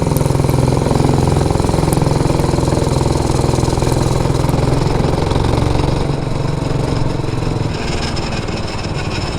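Predator 212cc single-cylinder engine with an aftermarket carburetor and exhaust, running hard on an MB200 mini bike under throttle. The engine note eases off and gets quieter from about six seconds in.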